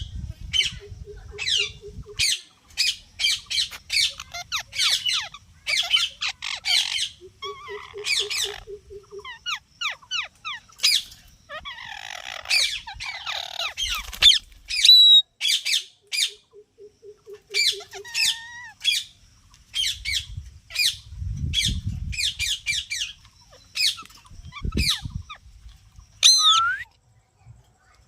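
Pet parrot squawking over and over in short, high-pitched calls with brief pauses between them.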